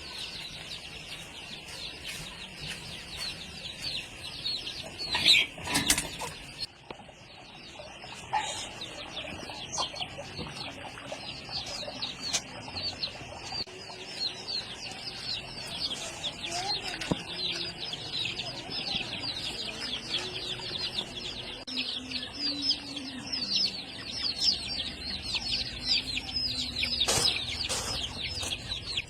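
Many small birds chirping constantly in dense, overlapping high calls, with a couple of sharp knocks or flutters, the loudest about five seconds in and another near the end.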